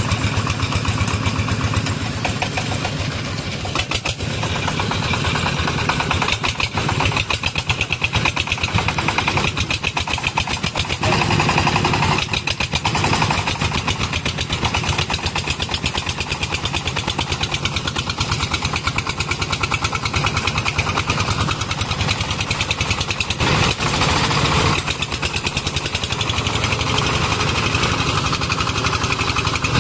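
Công nông farm truck's single-cylinder diesel engine running steadily, its firing pulses coming rapidly and evenly, with small changes in level.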